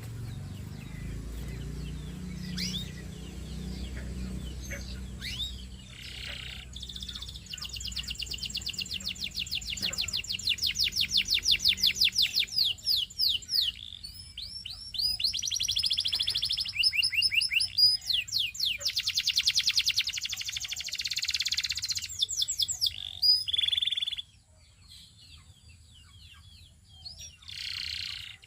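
Canary singing: long rolls of rapid, evenly repeated high notes, broken by short pauses and changes of phrase, the song falling away about three-quarters through and then a few short phrases near the end. A low rumble sits under the first third.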